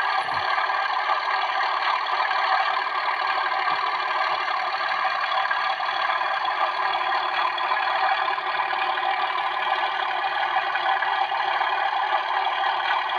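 Class 37 diesel engine sound with the 'diesel thrash' effect switched on, playing steadily from a model locomotive's sound decoder through its small speaker.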